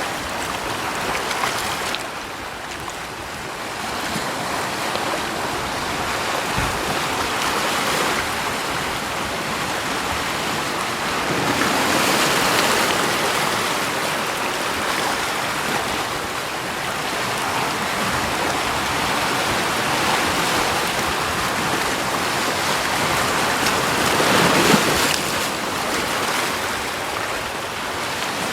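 Steady rush of water that swells louder twice, about halfway through and again near the end.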